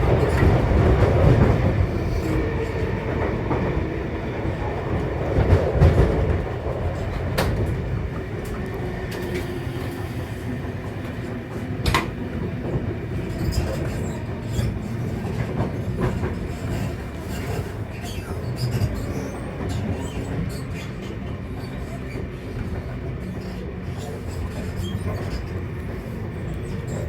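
Electric passenger train running through a station, a heavy rumble loudest over the first six seconds that then eases to a steadier rumble and hum, with a few sharp clicks.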